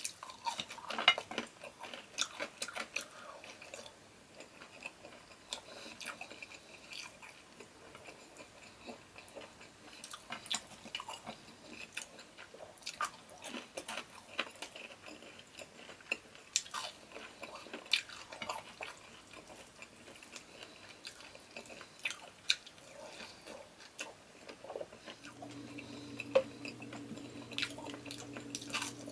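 Close-up chewing and wet mouth sounds of a person eating rice and fried pork chop by hand, with many short sharp smacks and clicks. A steady low hum starts near the end.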